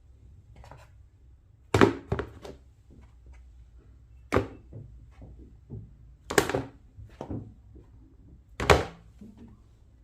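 Hard objects knocked and set down on a hard surface: a series of sharp thunks, one every two seconds or so, with lighter taps and clatters in between.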